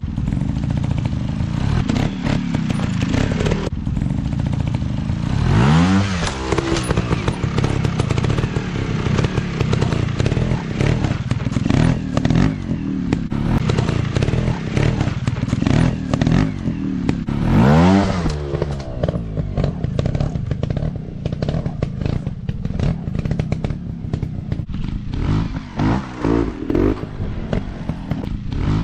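Dirt bike engine running off-road, revved hard twice with a sharp rise in pitch about six seconds in and again near eighteen seconds, over frequent clattering knocks.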